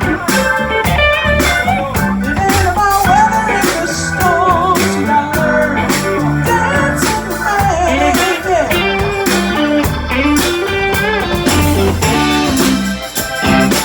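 Blues band playing live: an electric guitar lead with bent, wavering notes over drums and bass.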